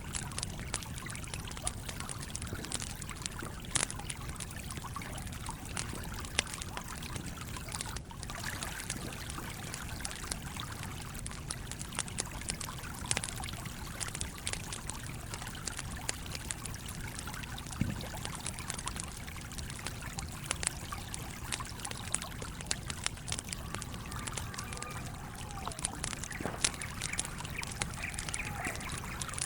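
Campfire crackling, with many small sharp pops scattered through it, over the steady trickling flow of a stream.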